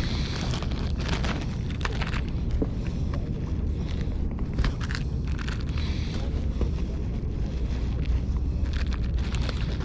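Wind buffeting the microphone, a steady low rumble, with scattered small clicks and rustles of handling.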